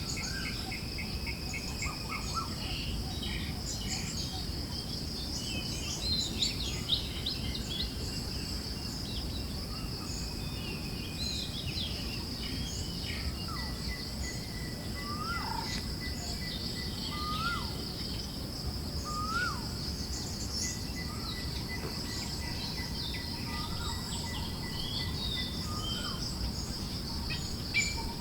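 Forest ambience: many small birds chirping and calling, over a steady high insect drone and a low rush of wind. Partway through, one bird repeats a short slurred call every couple of seconds.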